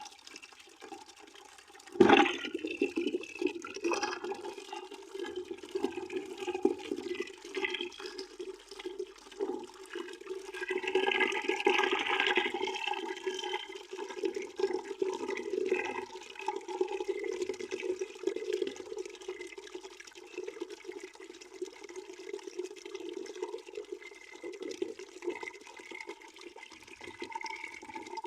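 Water pouring into a bucket, a steady splashing stream that jumps suddenly louder about two seconds in and swells briefly near the middle.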